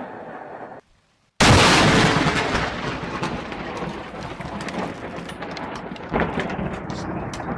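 Thunder from close lightning strikes. A fading rumble cuts off under a second in. About a second and a half in, a sudden, very loud thunderclap crashes and rolls away over several seconds with scattered crackles.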